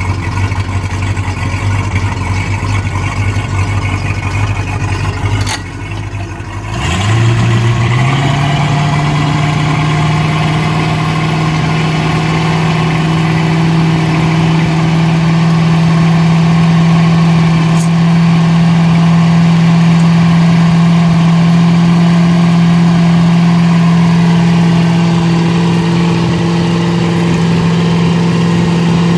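The boat's inboard engine idling steadily. About seven seconds in, after a brief dip, it speeds up smoothly to a faster, steady run that holds to the end.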